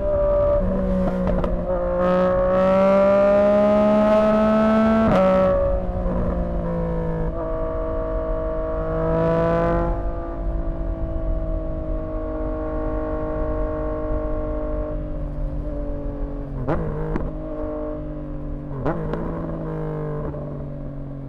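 2024 Yamaha MT-09's three-cylinder CP3 engine through a Dominator HP6 aftermarket exhaust, pulling hard with the revs rising, then a quick upshift about five seconds in. It runs on, then eases off with the pitch slowly falling, and gives two sharp exhaust pops near the end.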